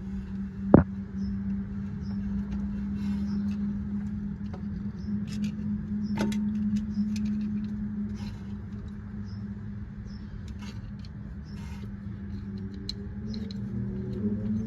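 Steady low drone from an Audi quattro all-wheel-drive drivetrain, holding one pitch: bearing noise from the differential or transmission. A sharp click sounds about a second in.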